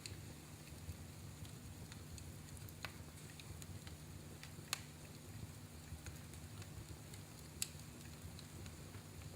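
Wood fire in a fireplace crackling faintly over a low steady rumble, with scattered small pops and two sharper cracks a few seconds apart in the middle.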